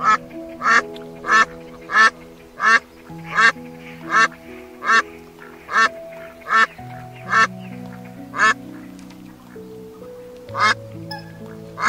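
A duck calling over and over, short calls about one every three quarters of a second, with a pause of about two seconds near the end. Soft background music plays underneath.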